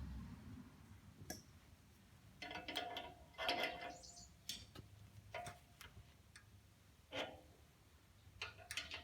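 Faint, irregular clicks and clinks, about a dozen, loudest between about two and four seconds in; a few carry a short ringing tone.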